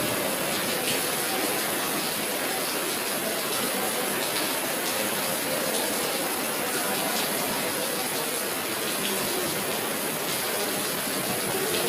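Steady rush of running water, an even hiss without distinct splashes.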